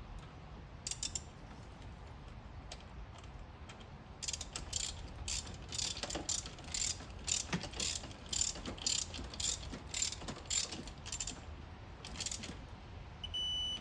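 Socket ratchet clicking in a steady run of strokes, about three a second, as a bolt on a 3.8L V6 engine is tightened. Near the end comes a short electronic beep, the kind a digital torque adapter gives on reaching its set torque.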